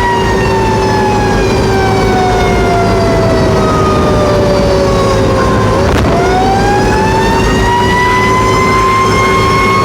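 Fire truck siren in a slow wail: its pitch falls steadily for about six seconds, then rises again and levels off. Under it run a steady lower hum and the low rumble of the truck's engine.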